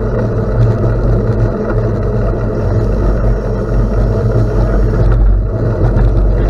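Steady, loud wind rumble on the microphone of a camera riding along on a gravel bike, mixed with the hiss of tyres rolling on gravel.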